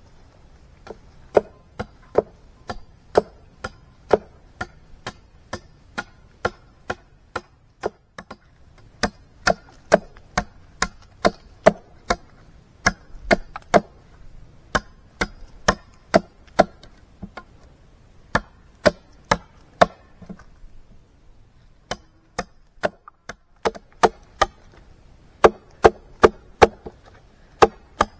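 Rhythmic chopping: a blade striking wood about twice a second, in steady runs broken by two short pauses, one about a third of the way in and a longer one about three quarters of the way in.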